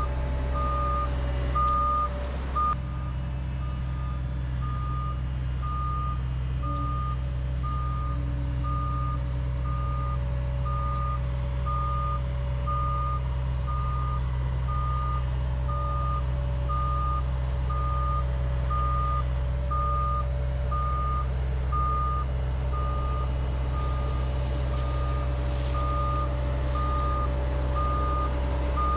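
Heavy equipment backup alarm beeping steadily, about once a second, over the steady drone of a diesel engine running: the machine is travelling in reverse.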